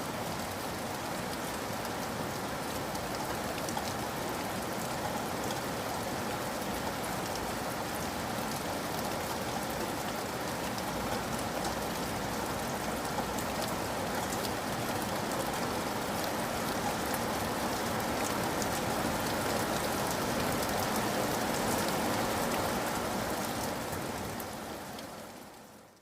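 Steady rain falling, an even hiss with many small drop ticks, fading out over the last couple of seconds.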